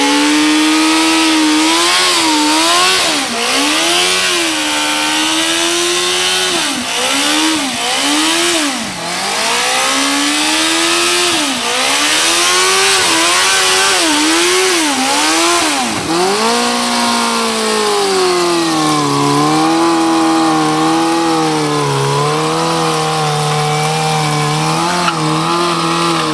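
Yamaha motorcycle engine revved hard in repeated rises and falls while the rear tyre spins and hisses against the ground in a burnout. About two-thirds of the way in, the engine settles and is held at steady high revs.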